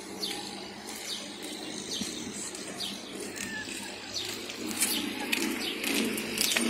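Small birds chirping: short, falling high chirps about once or twice a second, over a low street murmur that grows louder near the end as a car approaches.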